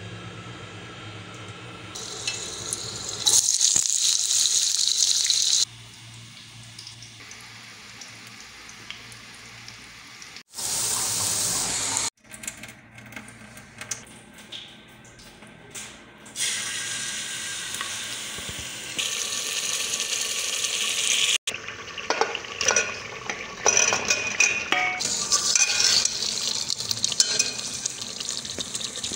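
Cooking sounds in a run of short cut-together clips: sizzling and hissing, with water sounds. The sound changes abruptly every few seconds.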